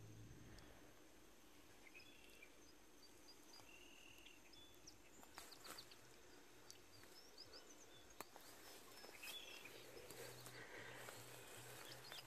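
Very faint outdoor quiet with scattered distant bird chirps and a few soft clicks and taps.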